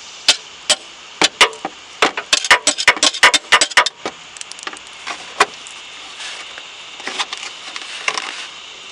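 Sharp metal taps from a hammer driving a butter knife into the sealed seam between a Toyota Corolla's oil pan and the engine block to break the pan free: scattered taps, a quick run of them about two seconds in, then a few spaced ones.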